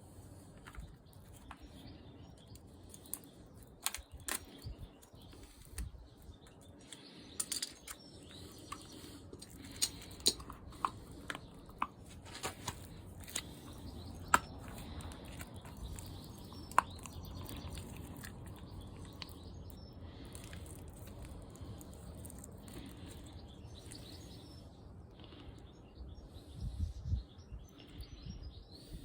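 Scattered sharp clicks and light knocks of hands working at a car driveshaft's CV joint while it is packed with fresh grease, over a faint steady background.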